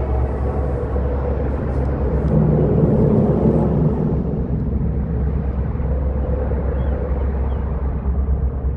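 Diesel locomotives of a CSX freight train rumbling as they approach, the sound swelling about two and a half seconds in.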